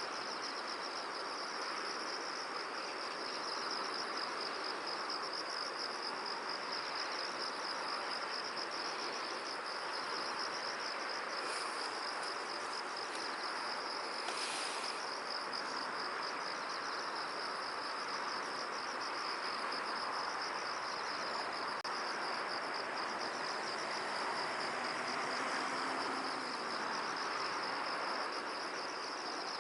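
A steady chorus of insects trilling in a high, fast pulsing, over an even rushing hiss of wind in the field. Two brief higher sounds stand out near the middle.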